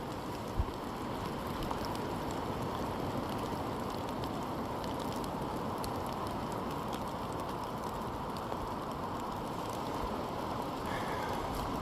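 Steady rain falling in the forest, with scattered close drops ticking and a single low thump about half a second in.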